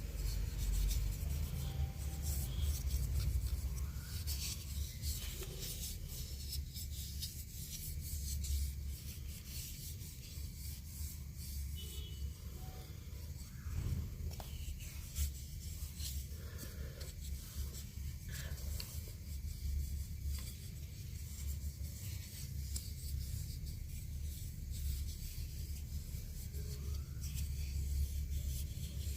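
Irregular scratchy rubbing strokes on a wooden mulberry spoon, over a low steady hum.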